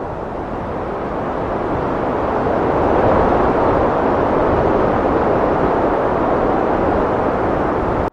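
Heavy wind blowing: a dense, even rushing noise that swells over the first few seconds and then stays strong.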